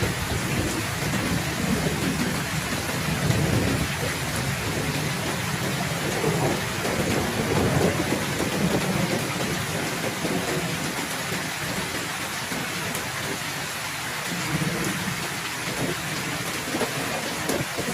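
Heavy steady rain with low rolling thunder that swells and fades several times.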